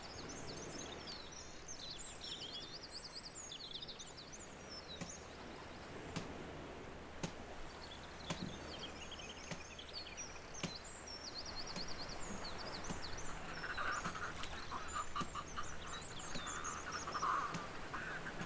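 Outdoor ambience of small birds singing, with high chirps and fast repeated trills throughout. A few sharp clicks come in the middle, and a lower raspy call joins in over the last few seconds.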